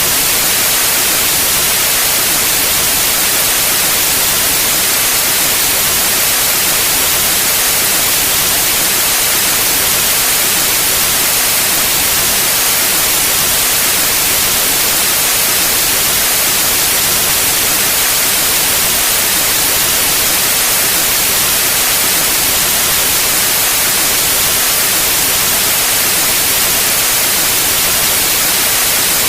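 Steady, even white noise: a constant loud hiss with most of its energy in the high frequencies, unchanging throughout.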